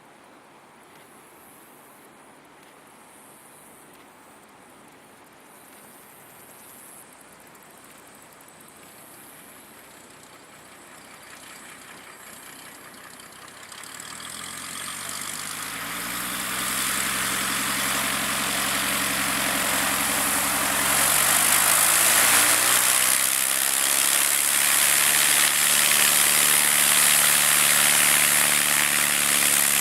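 Cessna 170B's six-cylinder Continental piston engine, faint at first, then growing steadily louder from about halfway through as the plane comes close. Its pitch shifts for a few seconds before it settles into a steady, loud low-power run near by.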